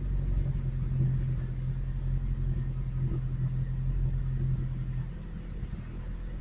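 Pickup truck engine running with a low, uneven rumble; its steady hum fades about five seconds in. The owner suspects the engine is starving for fuel because the truck is nearly out of gas.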